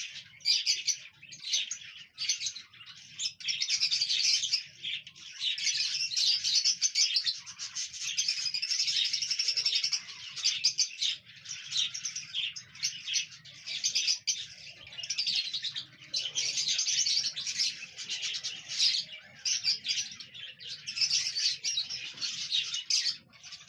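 Cockatiels chirping and warbling, busy bursts of high chirps with short pauses between them, the cheerful chatter of contented birds.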